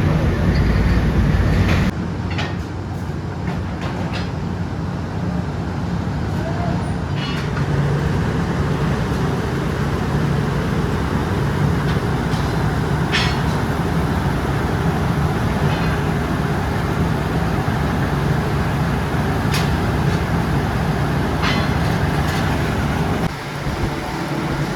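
Chain-factory machinery running steadily: a low mechanical hum under an even noise, with scattered sharp metallic clicks. The sound changes abruptly about two seconds in and again near the end.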